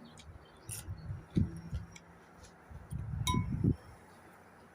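A few light clinks and ticks, one about three seconds in with a short ring, mixed with low thumps.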